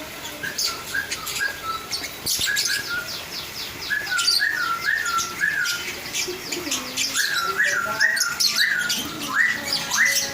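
Lovebirds chattering: a constant stream of high chirps, with runs of three or four short rising squeaks repeated throughout.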